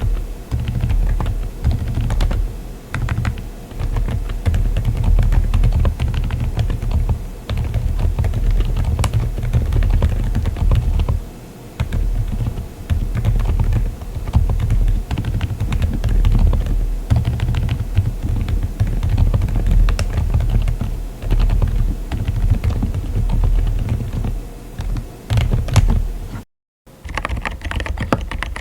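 Continuous typing on a mechanical keyboard fitted with Keychron Banana silent tactile switches: dull, muted keystrokes with a deep thud and little click. After a brief cut near the end, typing continues with a brighter, clackier tone on a different switch.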